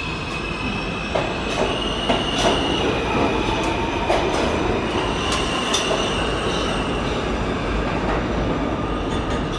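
R160 subway train moving through the station with a steady rumble. Its steel wheels give a high, wavering squeal on the rails, and sharp clicks and knocks come at irregular moments.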